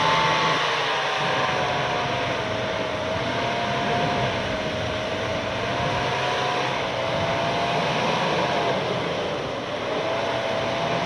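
An off-road 4x4 vehicle running under steady load: a sustained mechanical whine that rises at the start and then holds, wavering slightly, over a steady rushing hiss.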